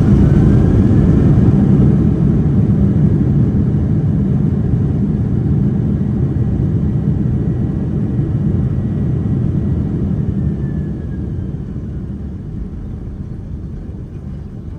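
Cabin noise of a Boeing 767-300 slowing on the ground after landing: a heavy rumble of engines and rolling gear that fades gradually, with a faint steady whine that slides down in pitch about ten seconds in.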